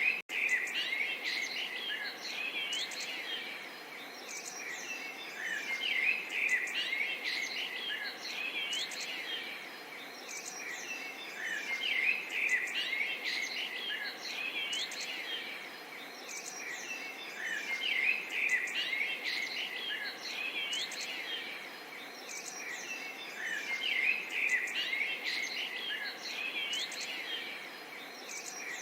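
Many small songbirds chirping and twittering together, with short rising whistles mixed in. The chorus swells about every six seconds over a faint steady hiss.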